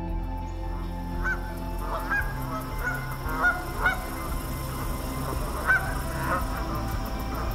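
Waterfowl giving short honking calls, about eight of them scattered irregularly, over soft sustained background music.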